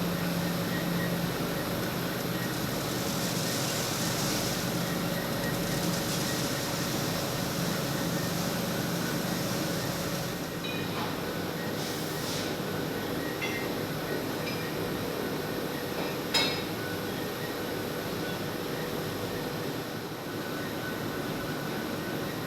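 Waste water treatment plant machinery running steadily, a constant mechanical rumble and hum, with a few short metallic clicks around the middle.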